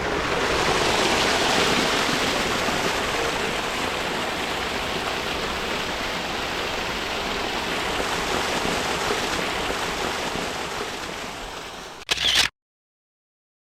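Rushing water of a waterfall-fed stream, a steady hiss, that stops abruptly after about twelve seconds with a short burst, followed by dead silence.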